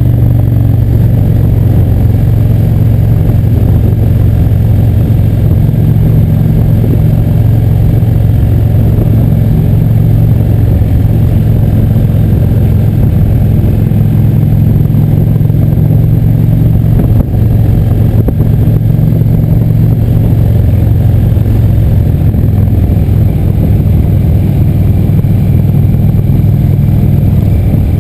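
Motorcycle engine running steadily while riding at a constant speed: a continuous low drone that holds nearly the same pitch throughout.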